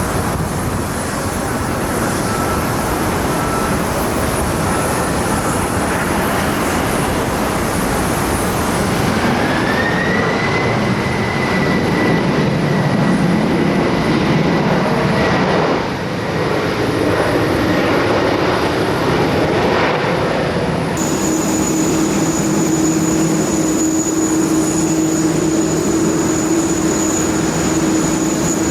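Jet airliner engines running loud and steady at close range. About ten seconds in, a whine rises and then holds. The sound changes abruptly twice, and after the second change a steady low hum joins it.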